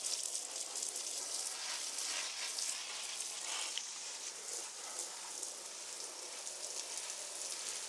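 Rain pattering on the polytunnel's plastic sheeting: a steady, fine crackling hiss.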